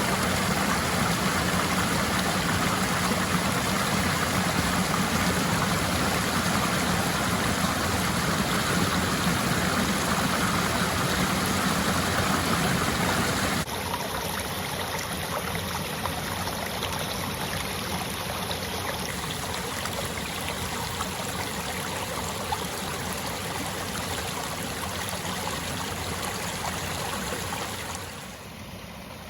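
Flowing stream water, a steady rushing; it drops suddenly to a quieter rush about halfway through and softens again near the end.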